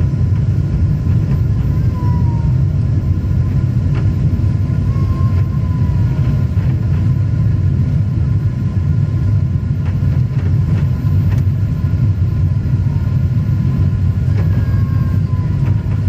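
Steady jet airliner cabin noise: a loud, even low rumble of engines and airflow, with a few faint short whistles drifting down in pitch. The engines are throttled back as the plane levels off at 1,000 ft and holds 250 knots right after takeoff.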